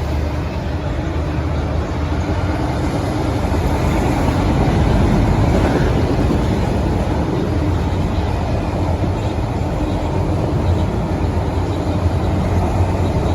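CN auto rack freight train passing, a loud, steady rumble of the train rolling by on the rails.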